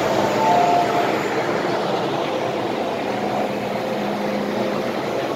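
MTR M-Train electric multiple unit running, heard inside the car as a steady rushing rumble with a faint steady whine. The last alternating two-note door-closing chime tones sound in the first second.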